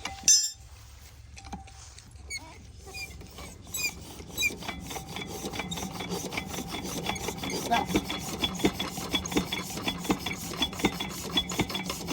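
Stationary single-cylinder diesel engine of a farm water pumpset starting up. A sharp knock and a few scattered knocks come first, then from about four seconds in the engine catches into a fast, even knocking beat that grows louder.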